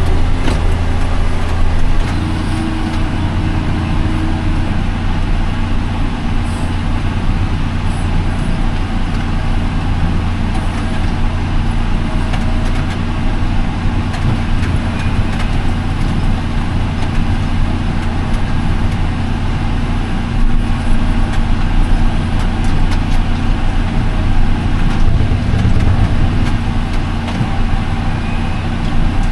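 Farm tractor engine running steadily under load while raking hay, heard from inside the cab.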